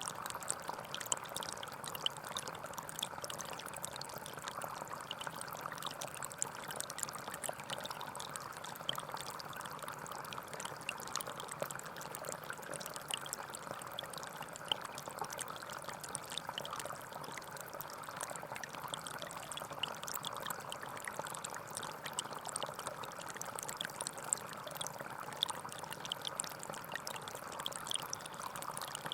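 Small forest stream flowing steadily, with many small splashes and drips over the running water.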